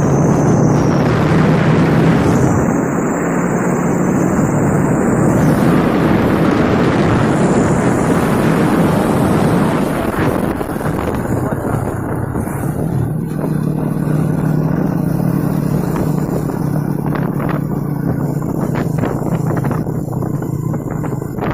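Loaded trucks' engines running steadily, a low engine hum under a loud rushing noise, in a truck convoy.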